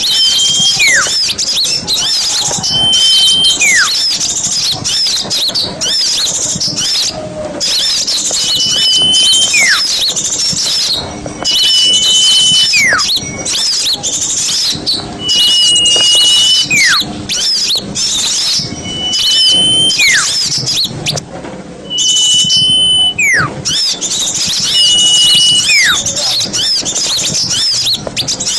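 Many small birds chattering with dense, rapid, high-pitched chips. Through it a repeated call sounds about every three seconds: a short held high whistle that drops away in a quick falling whistle.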